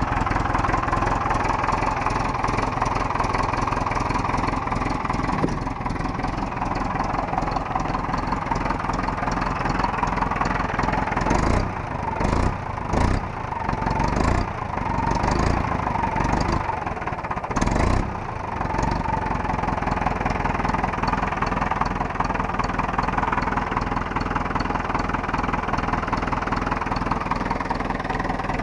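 Kramer KL600 tractor's Deutz diesel engine running at idle, cold, just after being started on starting fluid in frost. It runs steadily, with several seconds of uneven surging in the middle.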